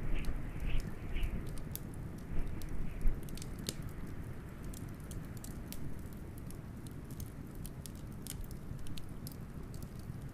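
Wood fire crackling with frequent sharp pops, over a steady low rumble of blizzard wind.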